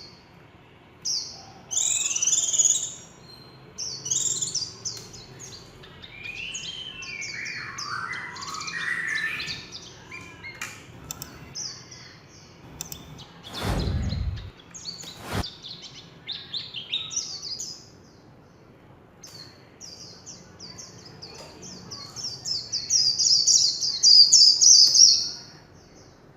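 White-eye (vành khuyên) singing a rapid, high twittering song in bursts, with fast trills and some lower sweeping phrases; the loudest trill comes near the end. A dull thump about halfway through.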